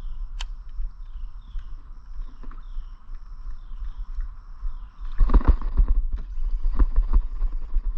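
A hooked bass is fought to the kayak, with splashing and knocks that grow louder about five seconds in. Before that a bird calls over and over, a short falling chirp about every half second.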